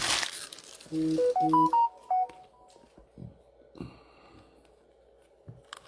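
A short electronic jingle: a quick run of about eight pitched notes that steps up and then back down, lasting about a second. It comes just after a brief rustle, and a few faint clicks follow.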